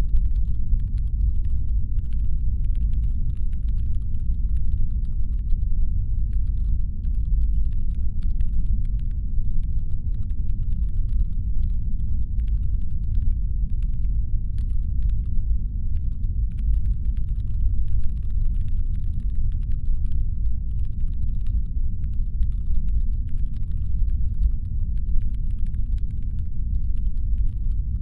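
Constant deep brown-noise rumble, a synthesized spaceship engine hum, steady without swells or rhythm. Faint, irregular light clicking is layered over it.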